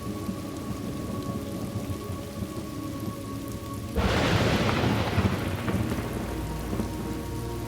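Thunderstorm ambience: steady rain with low rumbling. About four seconds in, a loud thunderclap breaks in and fades away over a couple of seconds.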